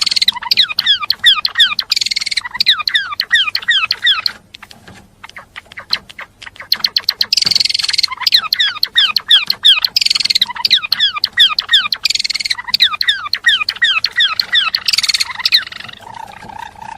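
A gelatik belong in full song: a fast, continuous chatter of short, sharply falling chirps in long phrases, with a brief lull about a third of the way in.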